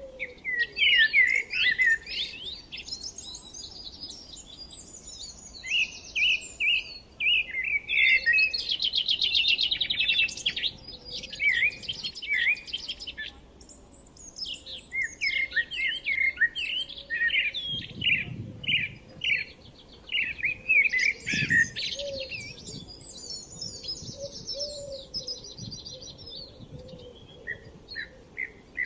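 Several forest songbirds singing and chirping at once, with quick chirps and whistled phrases overlapping. A fast trill stands out about eight to eleven seconds in, and there is a short lull near the middle.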